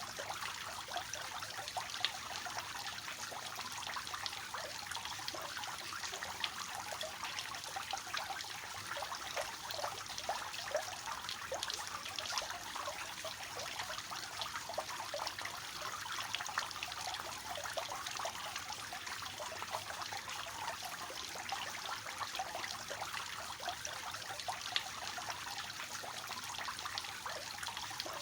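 Water from a three-tier fountain falling steadily from basin to basin, an even splashing and trickling with many small splashes.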